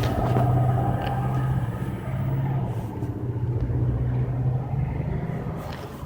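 Engine of paving roller equipment running, a steady low hum that weakens and drops away near the end.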